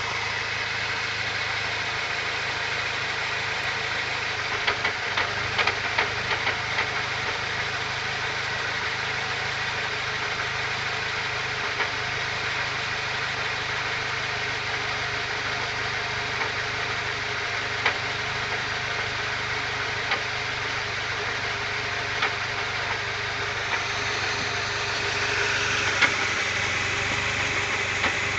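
Car engine idling steadily, with sharp clunks now and then: a cluster of them about five to seven seconds in, then single ones every few seconds. The clunking at idle is the fault being recorded.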